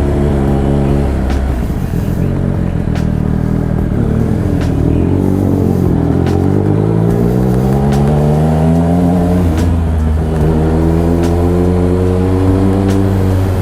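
Triumph Speed Triple RS's three-cylinder engine through an SC Project titanium exhaust while riding: the note falls as the bike slows, bottoms out about six seconds in, climbs as it accelerates, then holds steady at cruise.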